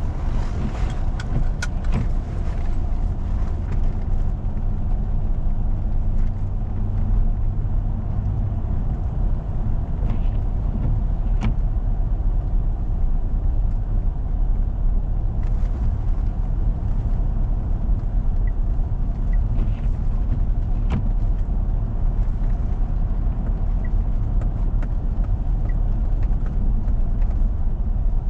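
A four-wheel-drive vehicle driving on a snow-covered road, its engine and tyres making a steady low rumble, with a few sharp clicks now and then.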